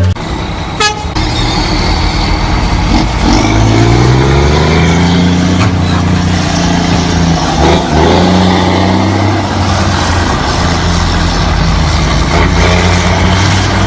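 Loaded Scania truck's diesel engine pulling away under load, its pitch climbing for a couple of seconds and then holding steady, with a brief dip about halfway through like a gear change. A sharp click sounds about a second in.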